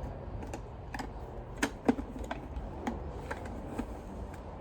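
Irregular light clicks and taps of hard plastic parts and small screws being handled while a Dyson vacuum's cyclone assembly is dismantled, with two sharper clicks a little under two seconds in.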